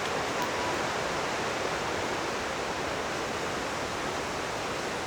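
Steady rushing noise of wind blowing through forest trees.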